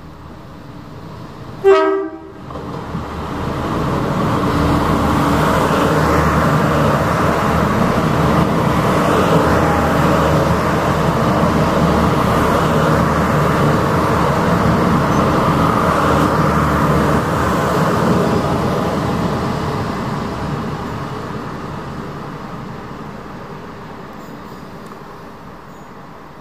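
Irish Rail 29000 Class diesel railcar sounding one short horn blast about two seconds in, then running through at speed: a loud, even rush of engine and wheels on rails that builds over a couple of seconds, holds for about fifteen seconds and fades away slowly.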